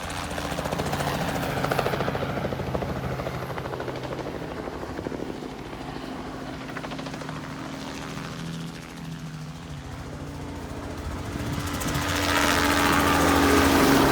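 Crop-spraying helicopter's rotor thump and engine as it works low over the fields, easing off a little past the middle and growing much louder near the end as it comes closer.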